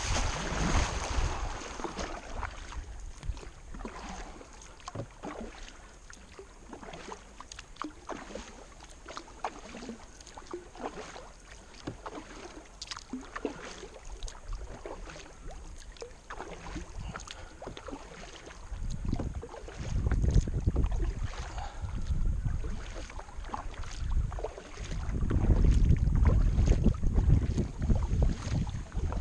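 Kayak paddle strokes dipping and splashing in river water, with small knocks and drips throughout. Wind buffets the microphone twice in the second half.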